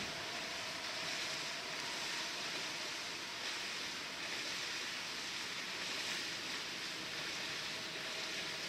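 Steady rushing hiss with no distinct sounds standing out.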